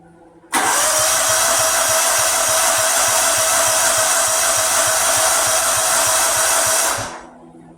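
Lawnmower engine being cranked by its electric starter for about six seconds, with a steady whine and a rapid low chugging. It starts and stops abruptly without the engine catching, a no-start that may just need a new gas filter.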